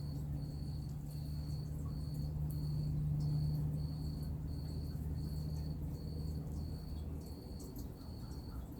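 Steady low drone of distant highway traffic, swelling slightly about three seconds in, with an insect chirping high and evenly about twice a second over it.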